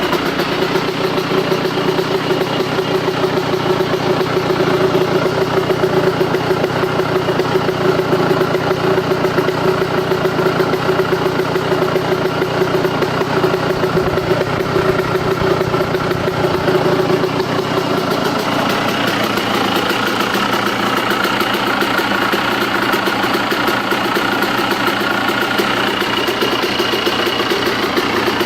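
Motorcycle engine idling steadily with a knocking noise, which the owner thinks is coming from the engine but is unsure whether it is just how the bike is. The sound changes in character about two-thirds of the way in.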